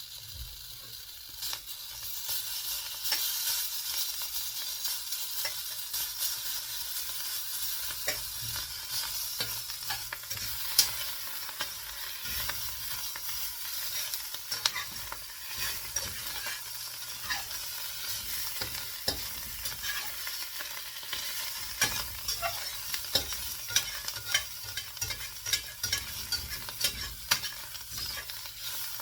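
Omelette with potato, mushroom, onion and ham frying in a pan: a steady sizzle with many small sharp pops and ticks at irregular moments.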